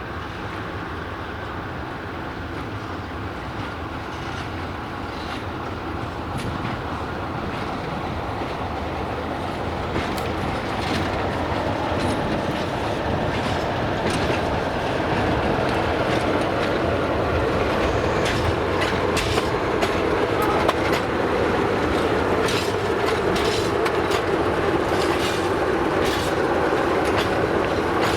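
A train running along the track and drawing closer, growing steadily louder. From about ten seconds in, its wheels click sharply and more and more often over the rail joints.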